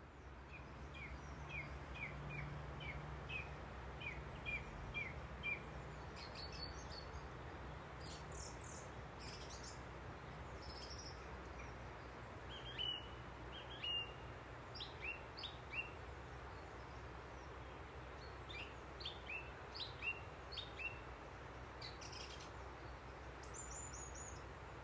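Songbirds calling over a steady low background hum: a run of short, evenly spaced chirps at first, then scattered higher calls and a brief high trill near the end.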